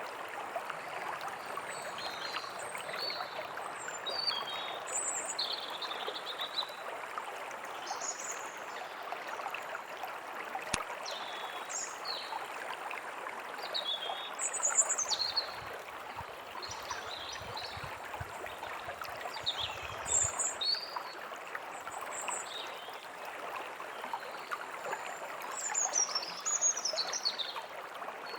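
A forest stream running steadily, with small birds calling in short chirps and quick sweeps throughout.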